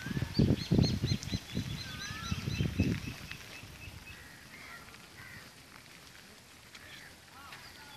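Small birds calling: a quick series of short high chirps in the first three seconds, then a few lower swooping calls. Loud low rumbling bumps on the microphone in the first three seconds are the loudest sound.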